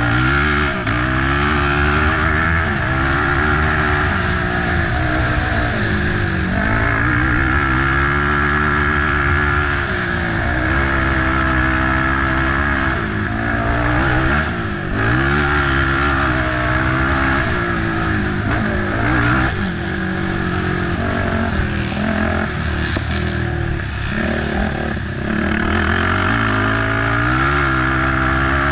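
Racing ATV's engine under hard throttle over rough ground. Its pitch climbs and drops again and again as the rider accelerates, shifts and backs off.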